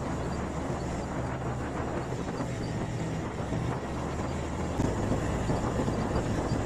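Quad bike (ATV) engine running steadily while riding, with a low engine drone under noise. It gets a little louder about five seconds in.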